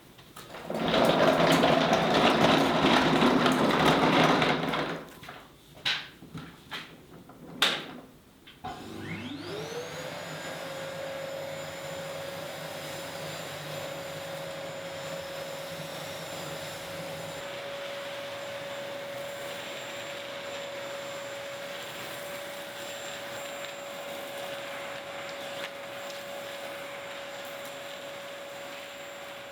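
A loud, noisy machine burst lasting about four seconds, then a few knocks and clicks. About nine seconds in, an electric motor spins up with a quickly rising whine and then runs steadily at one pitch.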